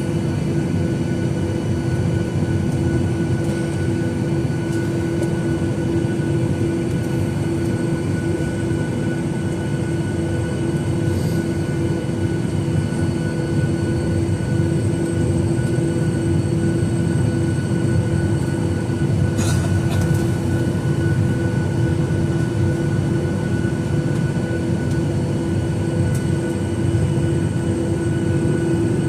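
Cabin noise inside a Boeing 737-900ER with its CFM56-7B engines at idle before takeoff: a steady rushing hum with a constant droning tone and fainter high whines, and a faint click about two-thirds through.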